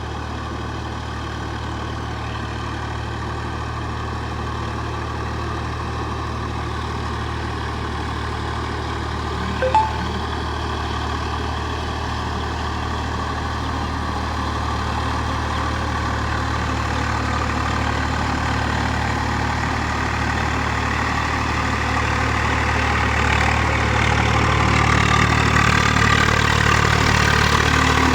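Tractor diesel engine running steadily, growing gradually louder toward the end. A brief, sharp high sound cuts in about ten seconds in.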